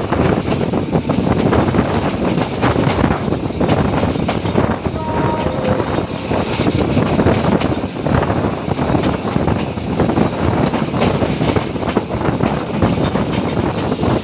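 Egyptian suburban diesel train running under power in the fifth throttle notch, a steady rumble of engine and wheels on rail with many short clacks, mixed with wind buffeting the microphone.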